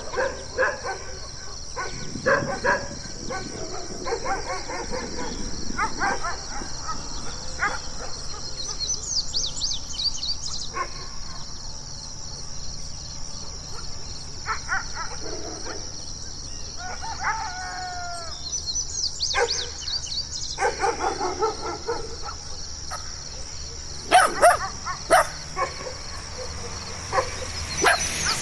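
Dogs barking in short, scattered bursts, with a drawn-out howl-like call about two-thirds of the way through and a louder cluster of barks near the end, over a steady high hiss.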